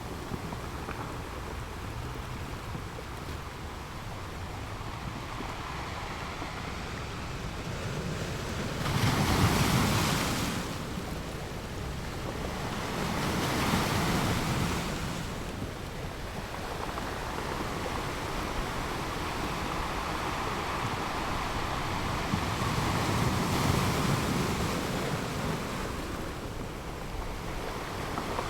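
Ocean surf breaking and washing up a sandy beach: a steady wash with three louder surges, the strongest about a third of the way in.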